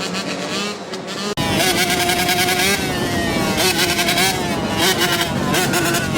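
Two-stroke dirt bike engine running and revving, its pitch rising and falling with the throttle. It becomes abruptly louder about a second and a half in.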